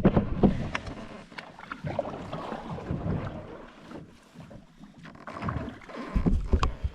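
Kayak paddling: paddle strokes splashing in the water, with a few sharp knocks and wind rumbling on the microphone.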